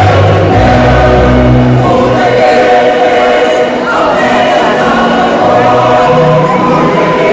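Choir singing in parts, the voices holding long chords that change every second or two.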